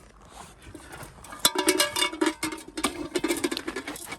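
Hard objects clinking and rattling quickly against each other, starting about a second and a half in, with a short ringing after some of the knocks.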